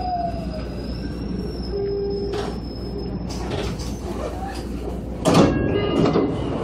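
Electric commuter train standing at a platform, its onboard equipment humming steadily after a falling whine dies away at the start. About five seconds in comes a sudden loud rush of air, followed by a few short tones, as the doors open.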